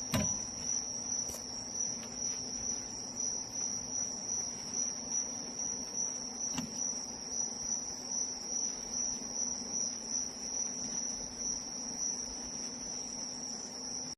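A steady, unbroken high-pitched insect trill with a faint low hum beneath it, and two faint clicks.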